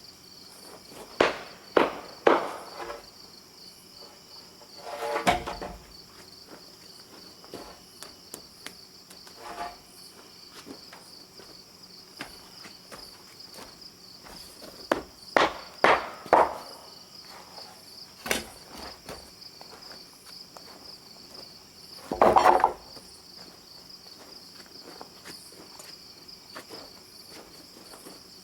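Steady high-pitched insect chirping throughout, broken by irregular knocks and thumps: a couple near the start, a longer one about five seconds in, several in the middle, and a longer one near the end.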